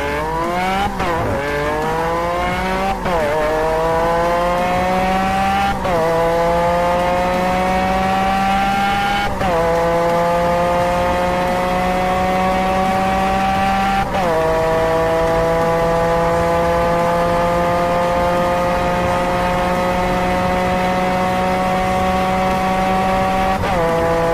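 High-performance car engine at full throttle, accelerating hard up through the gears. The engine note climbs in each gear and drops sharply at each upshift, about six shifts, with each gear held longer than the one before.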